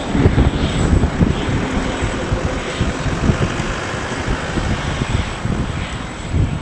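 Wind buffeting the microphone in heavy gusts over a steady, thin high-pitched whine and rumble of jet aircraft on the airfield.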